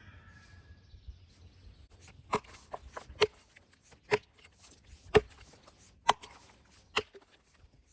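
Freshly sharpened axe chopping into a log: six sharp strikes about a second apart, starting about two seconds in, with small knocks between them as chips fly.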